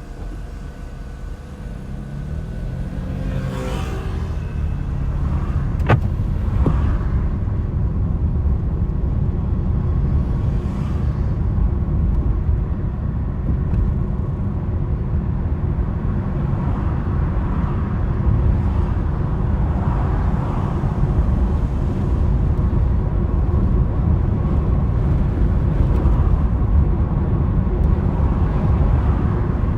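A car driving, with a steady low rumble of road noise that builds over the first few seconds as it picks up speed, the engine note rising meanwhile. There is a single sharp click about six seconds in.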